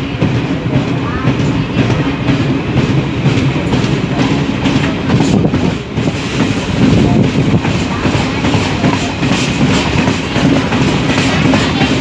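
DEMU passenger train running along the track, heard from an open coach doorway: wheels clattering over the rails in a fast run of clicks above a steady low rumble.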